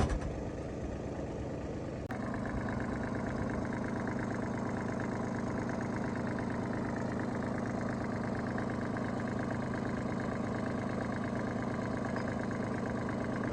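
Engine idling steadily. About two seconds in there is a click, and the idle becomes slightly louder and steadier.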